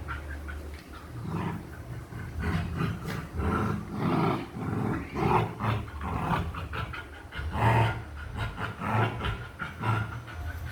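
Puppies vocalising in a string of short, repeated sounds over a steady low hum.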